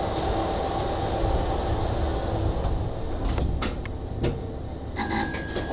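Inside a Hanshin train just behind the driver's cab: a steady equipment hum with a faint steady tone that fades out partway through, followed by a few scattered knocks and clicks and a louder sharp clack about five seconds in.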